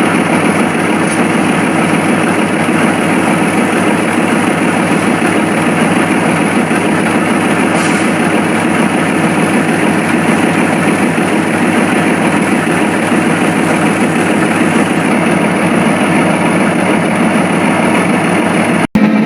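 Diesel locomotive engine idling steadily, a constant low rumble with a thin high whine over it, cut off abruptly just before the end.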